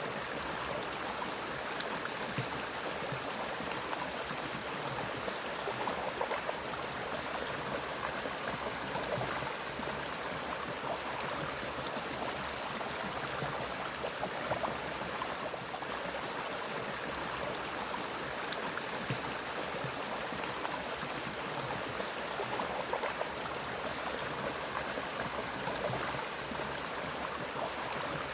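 Mountain stream flowing steadily through forest, a continuous rush of water. A steady high-pitched tone sounds throughout.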